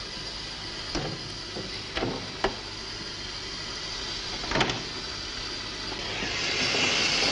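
Motor vehicle running with a few sharp clunks, then a hiss swelling in near the end: the engine overheating, its radiator low on water.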